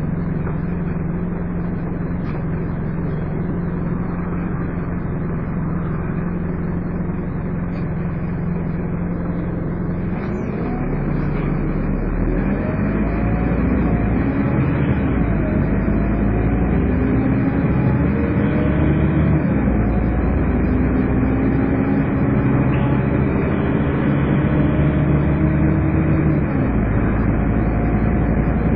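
Scania N230UD double-decker bus's five-cylinder diesel heard from on board, first running steadily, then about ten seconds in pulling away and accelerating. Rising engine tones drop back at each gear change, with the vacuum-cleaner-like 'Hoover' whine this model is known for.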